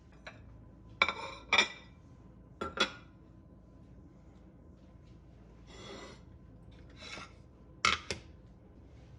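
Kitchen utensils clinking and scraping against dishes: a series of short metallic scrapes and knocks, several of them paired, with a softer scrape about six seconds in.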